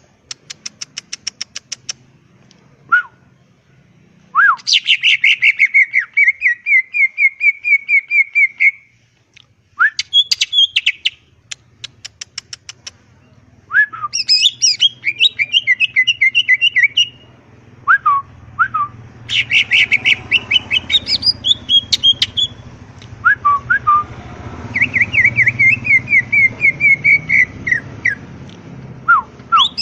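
Cucak ijo (greater green leafbird) singing loudly in bursts of varied, high-pitched phrases: fast chattering trills, rapid series of clicks, and short whistled notes that drop in pitch. A low hum runs beneath the song in the second half.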